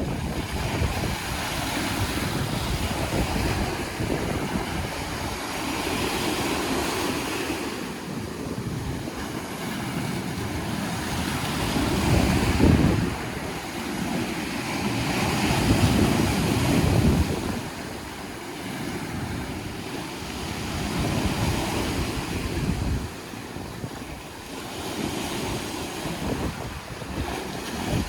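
Small sea waves washing onto the shore, swelling and ebbing every few seconds, with wind buffeting the microphone.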